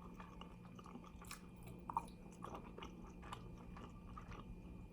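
Faint chewing on fried chicken wings, with soft short clicks scattered through and one slightly louder about two seconds in.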